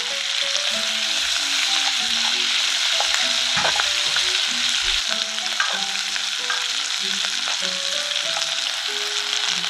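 Onion, asparagus, mushrooms and garlic sizzling steadily as they fry in oil in a frying pan.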